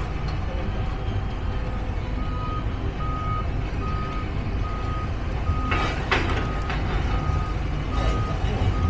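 A vehicle's reversing alarm beeps at a steady single pitch, about one beep every 0.8 seconds, starting about two seconds in, over a constant low engine rumble. Two brief falling squeals cut across it, one near the middle and one near the end.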